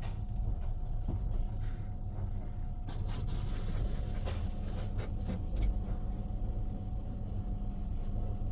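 PECO tunnel car wash equipment heard from inside the car: a steady low rumble and hum, with a hissing rush about three seconds in and scattered knocks against the car.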